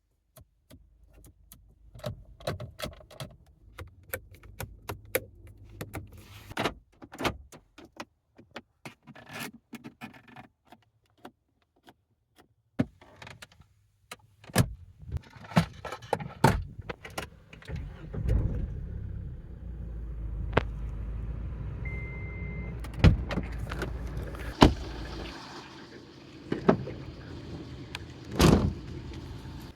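A Tata Hexa's fittings being worked: a run of sharp clicks and clunks such as latches, locks, switches and keys, with a pause about halfway. Later a low steady hum runs for several seconds, with a short beep partway through, and a few louder knocks come near the end.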